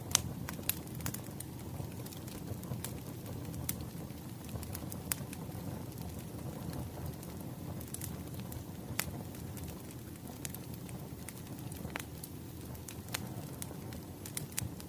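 Wood fire crackling: a steady low rumble with irregular sharp pops and snaps of burning firewood.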